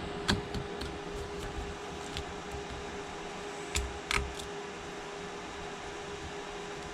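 Steady hum of a small fan holding one tone, with a few light clicks of metal tools against the phone's back glass, about a third of a second in and twice around four seconds in.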